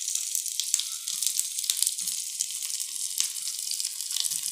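Paneer cubes sizzling and crackling in hot mustard oil in a frying pan as they are turned over to brown the other side.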